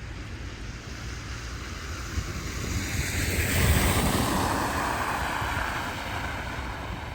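A vehicle passing on a snowy, slushy street: tyre hiss swells to a peak about four seconds in, then fades away.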